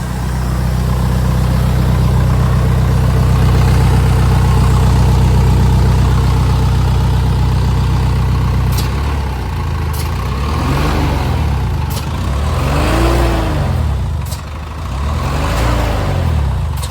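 A 2010 Hino 185 truck's diesel engine runs steadily for about nine seconds, then is revved up and let fall back about three times.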